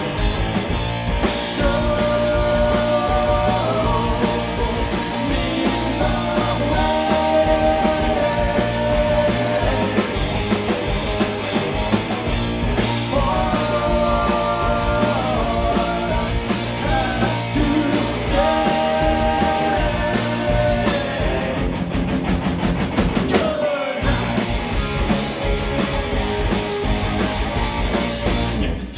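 A rock band playing live and loud, with drums and held melody lines over a thick bass. The band stops dead for a split second about three quarters of the way through, then comes straight back in.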